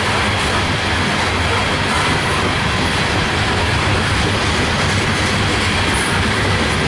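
Loaded coal train's cars rolling past close by: a steady, loud rumble and hiss of steel wheels on rail.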